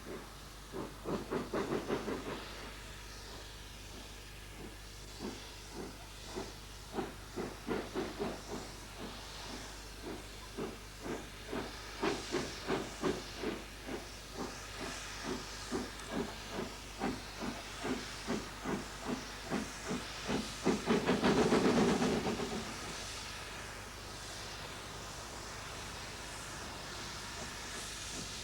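The three-cylinder Gresley A3 Pacific Flying Scotsman working under steam, its chimney exhaust beating in a steady rhythm. Its whistle sounds once, for about a second and a half, some three-quarters of the way through, followed by steady hiss.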